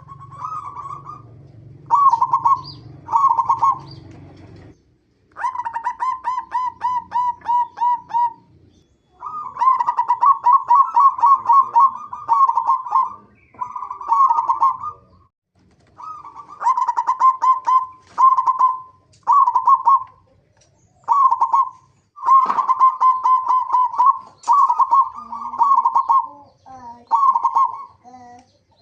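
Perkutut (zebra dove) cooing: a series of phrases made of fast, stuttering repeated notes, some short and some drawn out over a few seconds, with brief pauses between them.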